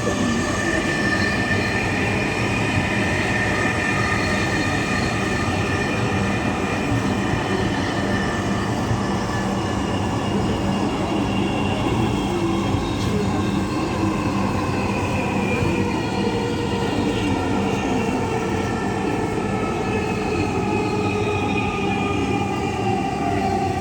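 Dhaka Metro Rail electric train running between stations, heard from inside the carriage: a steady rumble of wheels on track with a motor whine, its pitch falling gradually in the second half as the train slows.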